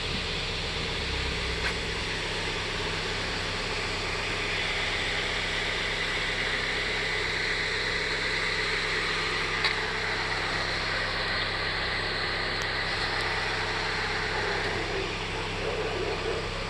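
Car engine idling steadily, with a couple of faint clicks.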